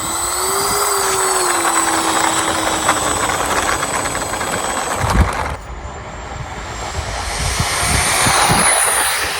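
Twin 50 mm electric ducted fans of a model Su-27 jet whining at high speed over a rushing airflow sound. The rush drops off about halfway, after a low thump, then swells again to a peak near the end, the whine rising in pitch. Wind rumble on the microphone underneath.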